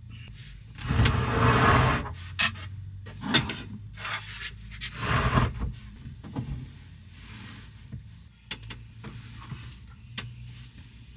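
A bed being made up in a camper van: bedding rustling and swishing in two loud bursts, with scattered knocks and rubbing as things are moved about.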